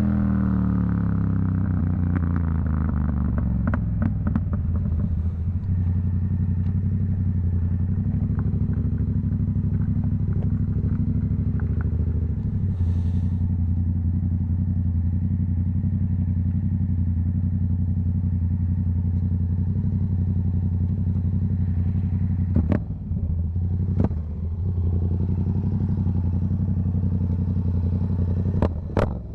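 Yamaha MT-07's CP2 parallel-twin engine through a Black Widow aftermarket exhaust, its revs dropping off and settling into a steady low rumble. Exhaust crackles on the overrun early on, and a few louder pops and bangs later, with a cluster near the end.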